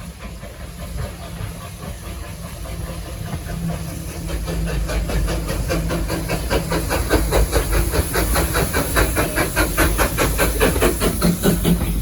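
Steam locomotive working steadily, its exhaust chuffs in a quick even rhythm of about five a second, growing louder from about four seconds in over a low rumble and steam hiss.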